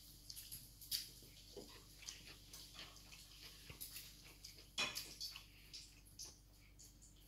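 Faint eating sounds from a child chewing at the table: scattered soft mouth clicks and light taps, the loudest about five seconds in.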